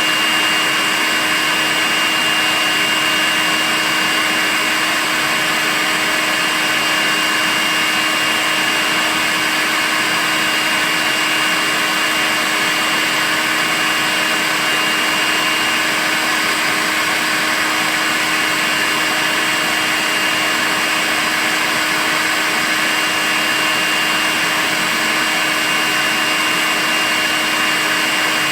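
Makita cordless stick vacuum cleaner running continuously at a constant speed: an even motor hiss with a steady high whine, unchanging throughout.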